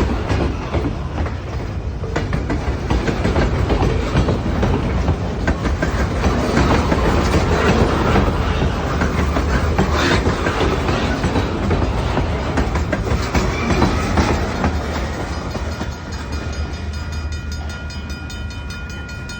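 Freight cars of a long train rolling past, their wheels rumbling and clicking over the rail joints. The sound eases toward the end, when a thin steady high tone joins.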